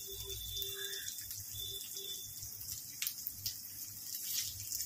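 Sliced fresh coconut sizzling in a little oil on a hot tawa, a steady high hiss, with a few light scrapes and taps of a wooden spatula stirring it in the second half.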